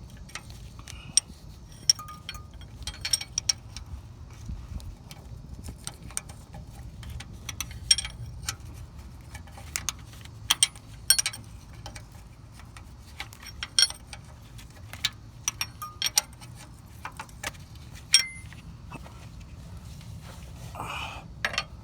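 Irregular metal clinks and taps of a 14 mm open-end wrench being fitted onto a bolt, turned a little, and refitted again and again in a tight spot.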